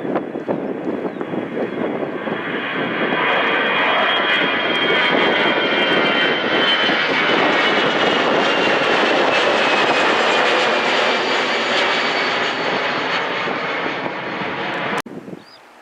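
Jet airliner's engines passing close by: a loud roar that swells, holds, then eases, with a high whine that slowly drops in pitch as the aircraft goes past. It cuts off suddenly near the end.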